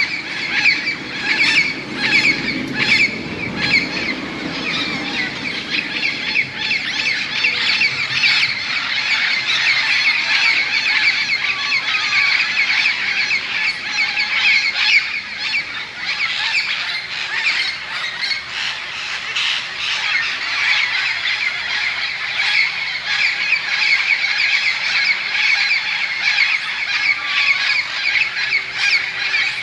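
A large flock of parrots squawking nonstop, many calls overlapping into one dense, very noisy chorus as the birds gather to roost for the night.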